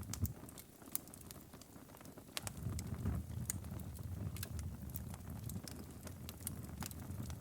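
Wood fire crackling, with irregular sharp pops and snaps over a low, steady rumble of flames.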